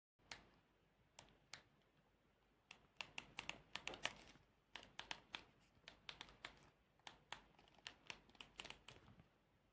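A run of short, light clicks and taps at uneven spacing, a few at first and then in quick clusters.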